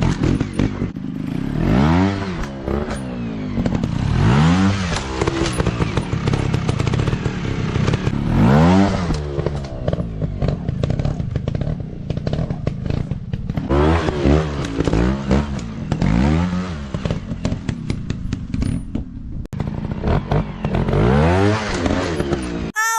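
Dirt bike engine revving up and dropping back again and again, its pitch rising and falling every second or two, over a steady clatter of knocks.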